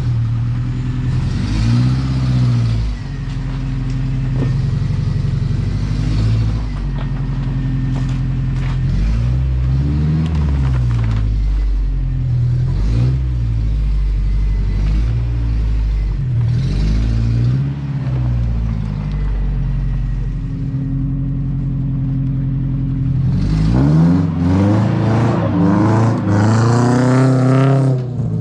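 1987 Toyota pickup engine running through its newly fitted aftermarket exhaust, revved up and back down several times with steady running in between. Near the end it accelerates hard, its pitch climbing in repeated rising sweeps.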